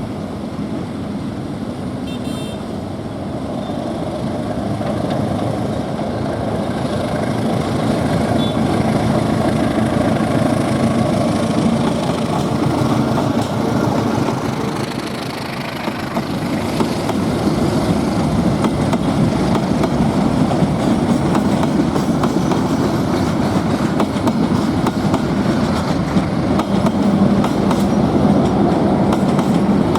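Diesel-hauled passenger train running past, a continuous rumble that grows gradually louder, with a low steady engine hum coming up near the end.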